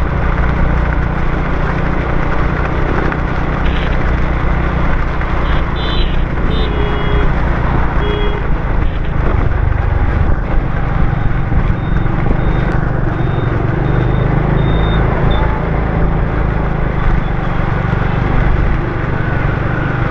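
Motorbike riding through city traffic on wet roads in the rain: a steady rush of engine and road noise with a low rumble, and a few short high beeps partway through.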